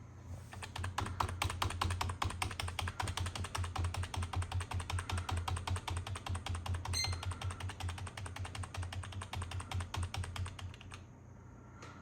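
Typing on a computer keyboard: a fast, steady run of keystrokes lasting about ten seconds, stopping shortly before the end.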